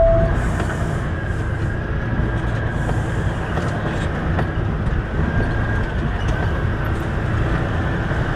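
Semi truck's diesel engine running, heard from inside the cab as a steady low rumble, with a short loud tone right at the start.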